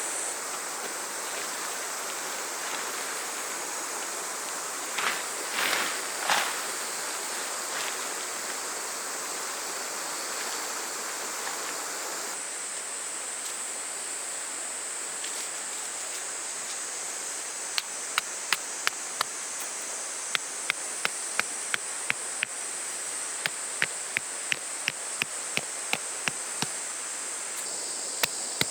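A steady, high insect drone of summer cicadas over a soft rush of running water. In the last ten seconds, a run of sharp knocks comes at about two a second.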